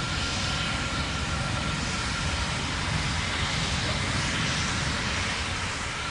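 Steady roar of the Terran 1 rocket's first-stage engines burning during ascent, near max Q.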